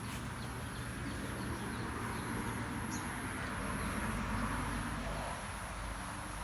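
Rural outdoor ambience: a steady hiss with a low rumble beneath and a few faint bird chirps.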